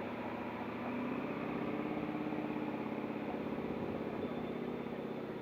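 An engine running steadily, with a fast even pulse.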